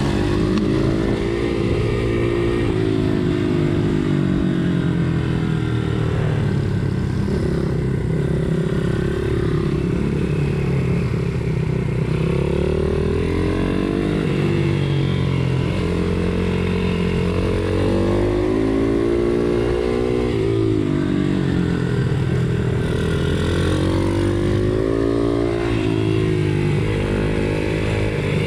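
Pit bike engine heard from on board, revving up and dropping back again and again as the bike accelerates and slows around a race track. The pitch climbs and falls every few seconds.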